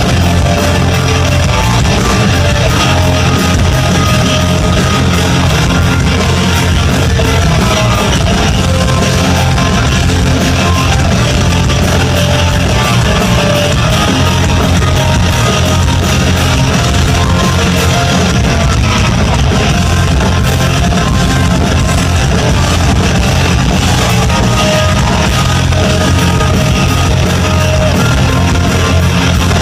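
Rock band playing live and loud, with electric guitars over drums.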